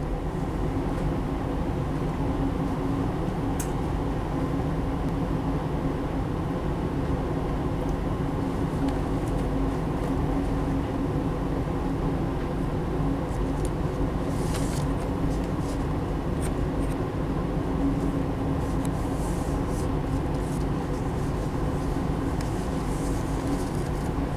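Steady running noise inside a passenger train carriage at speed: a low rumble of wheels on rails with a steady hum, and a few faint high clicks.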